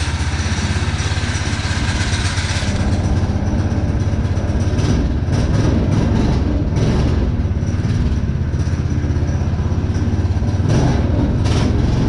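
Small petrol engine of a new mini off-road machine idling steadily, just started cold on choke.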